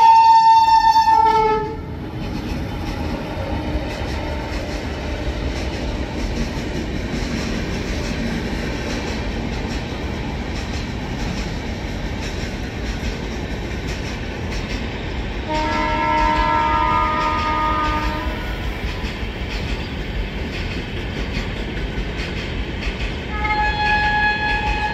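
Indian Railways passenger train running past on the rails with a steady rumble and clatter, while a locomotive horn sounds three times: a loud blast at the start, another about two-thirds through, and a third near the end.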